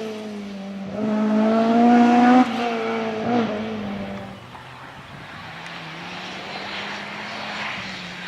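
Historic rally car's engine revving hard on a stage: a loud burst of rising revs that cuts off sharply after a couple of seconds, then the engine fades away, leaving a fainter steady drone.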